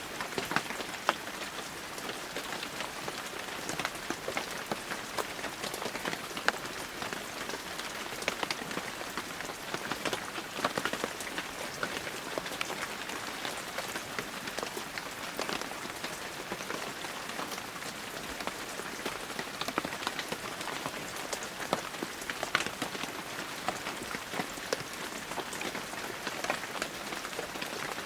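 Heavy rain falling steadily, an even hiss thick with the sharp ticks of individual drops striking close by.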